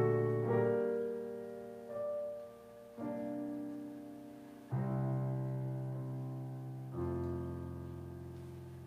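Piano playing slow chords, each struck and left to ring and fade, the last one held and dying away near the end.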